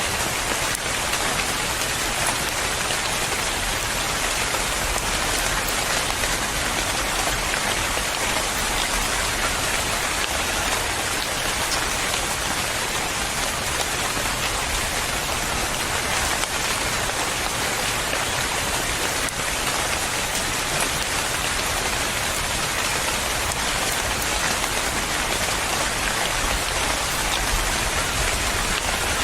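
Steady rain falling on a surface, a dense even hiss of many drops with faint scattered drop ticks, unchanging throughout.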